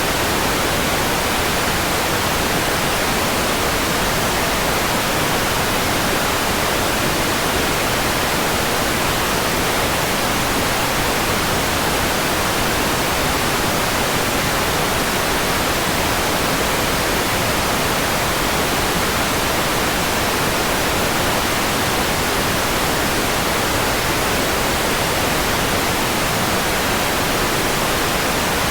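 Steady synthetic white noise: an even, unchanging hiss across the whole range, with no events.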